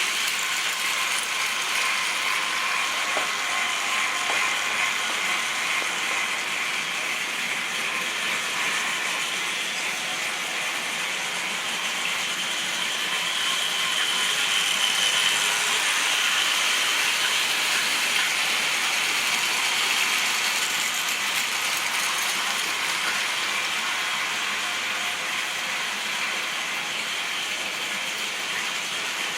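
Model railway train running on the track: a steady mechanical whirr and clatter of the motor, gears and wheels on rails, a little louder around the middle.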